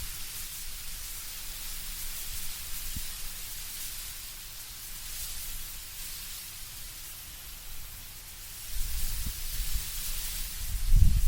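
Wind blowing through autumn trees, leaves rustling in a steady hiss that swells and fades with the gusts. A low gusty rumble builds up about nine seconds in and is the loudest part.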